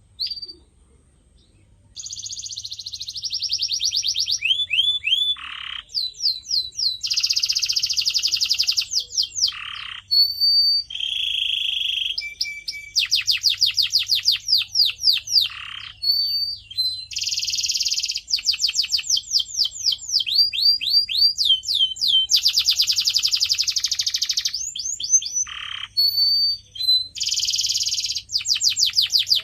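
Canary singing a long, continuous song: very fast rattling trill rolls alternating with runs of repeated downward-sliding whistled notes. It starts after a single short note and a brief pause near the beginning.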